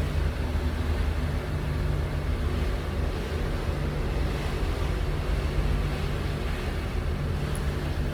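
Steady low hum of a cruise ship's engines and machinery under a constant rush of wind and sea, with wind buffeting the microphone.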